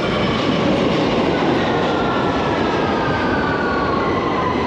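London Underground Victoria line train running through the tunnel, heard from inside the carriage: a loud, steady rumble with a whine that slowly falls in pitch.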